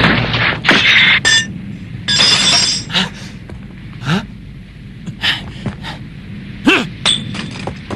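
Animated sword-fight sound effects: a series of sharp metallic clashes and swishes, some with a brief ring, spread out with quieter gaps between.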